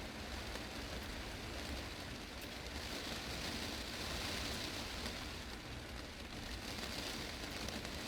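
Heavy rain falling on a glass greenhouse roof: a steady, dense hiss of drops on the glass with a low rumble underneath.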